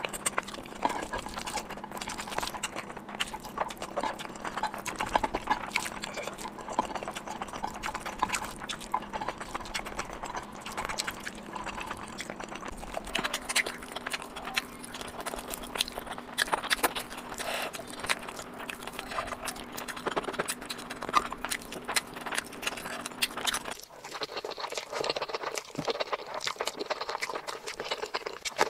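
Close-miked eating sounds: a dense run of wet chewing clicks and lip smacks as saucy food is bitten and chewed. A faint steady hum sits underneath through the middle stretch and stops abruptly near the end.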